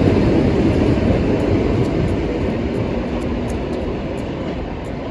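Electric commuter train running past the platform, a loud rumble that gradually fades as it moves away, with faint high clicks on top.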